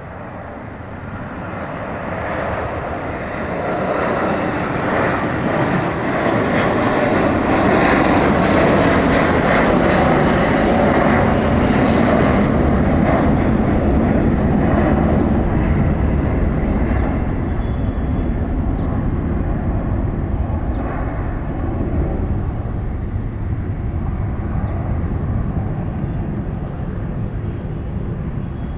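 Jet airliner's engines at takeoff power: a loud, dense jet noise that builds over several seconds, peaks as the aircraft passes, then slowly fades.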